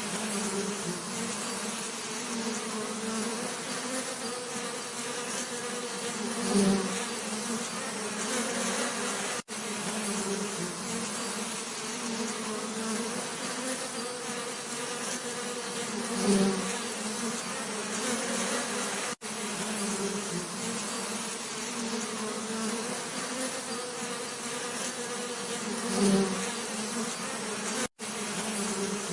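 Bees buzzing in a steady low hum that swells louder three times, about ten seconds apart, broken by three very brief dropouts.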